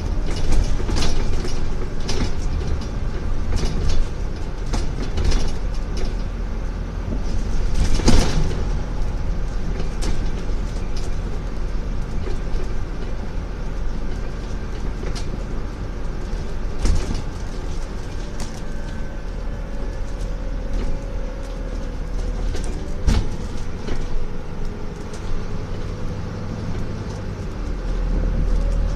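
Scania N250UD double-decker bus heard from on board while driving: its five-cylinder diesel engine running with road rumble, and frequent knocks and rattles from the body and fittings. Near the end the engine's low drone grows louder.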